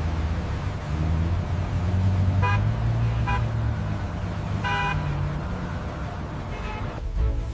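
A car engine running on the move, its pitch rising and falling. Four short car-horn toots sound over it, the third the longest and the last faint.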